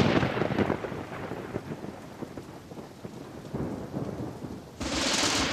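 A thunderstorm: rain falling steadily with thunder. A loud clap right at the start fades into a rumble, and a second loud swell of thunder and rain comes near the end.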